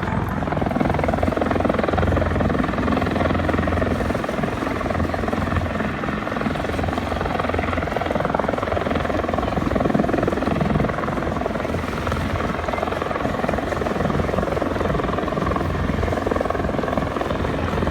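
Aircraft flying in an airshow display, a continuous, steady drone with strong low rumble that does not stop or change.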